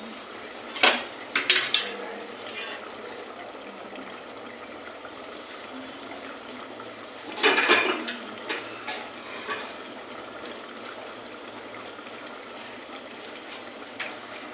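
Kitchen utensils clattering against pots and dishes: a few sharp clinks about a second in, a louder cluster of clatters about halfway through, and one more near the end, over a steady background hiss.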